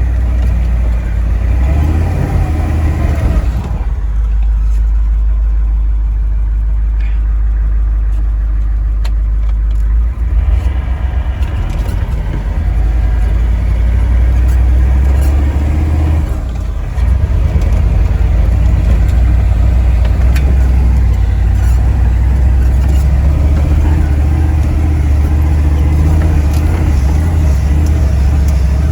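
Ford 7.3 IDI turbo-diesel V8 running under load as the truck backs and drives through deep snow. The engine note shifts a few times, changing about 4 and 10 seconds in, with a short dip around 16 seconds before it picks up again.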